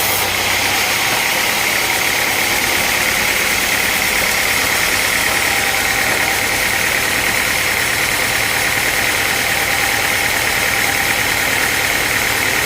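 Sawmill machinery running steadily: the engine-driven saw's motor and blade make a continuous mechanical noise with a constant high hum.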